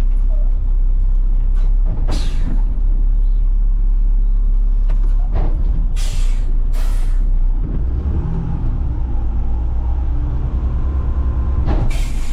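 Diesel engine of a front-load garbage truck running, with short hisses of released air from its air brakes several times. About two-thirds of the way through the engine speeds up and runs harder.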